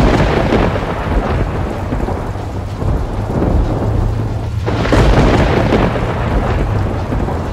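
Thunder rumbling over heavy rain, with a fresh sudden crack of thunder about five seconds in.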